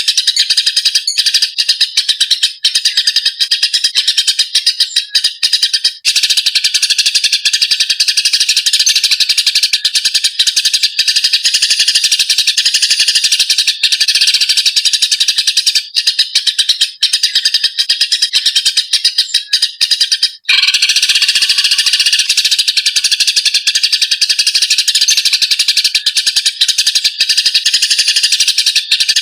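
Eurasian tree sparrows chirping and chattering fast and without pause, the harsh scolding of sparrows fighting. The chatter breaks off for a moment about twenty seconds in, then goes on.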